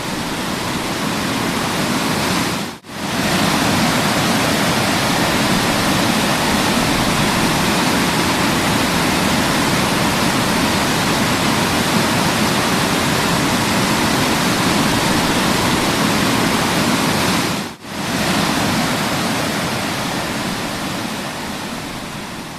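A wide waterfall's water rushing steadily. The sound cuts out for an instant twice, about three seconds in and about eighteen seconds in.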